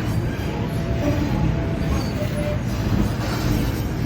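A train running at the station, a steady low rumble with a few short faint tones over it.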